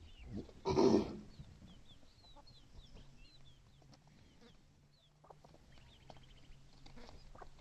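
A hen and her chicks: clucking, with the chicks peeping in many short, high, falling chirps. A brief, loud, rasping burst comes about a second in.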